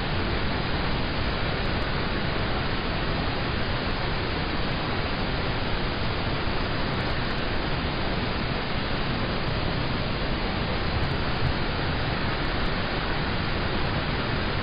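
Steady rain falling on a car, heard from inside the cabin as an even hiss.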